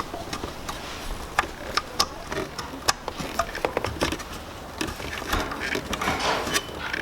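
Hands fitting an H4 headlight bulb's retaining ring, turning it clockwise to lock the bulb into the headlight housing: irregular small clicks, taps and scrapes of plastic and metal parts.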